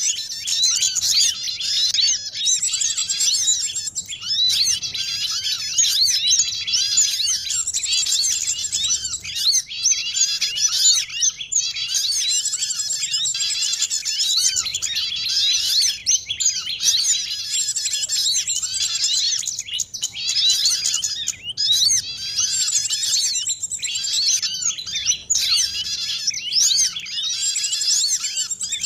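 Dense chorus of many small songbirds twittering and chattering over one another without a pause: a mixed lure recording of noisy small birds such as sunbirds, white-eyes and prinias, used to call wild birds down for trapping.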